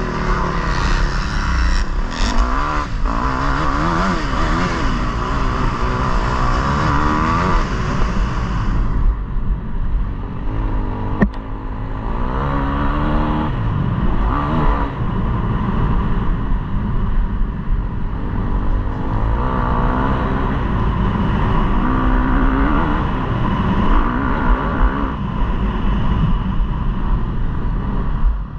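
KTM 250 motocross bike engine revving hard, its pitch climbing and dropping over and over as the throttle is opened and closed. There is a sharp click about eleven seconds in.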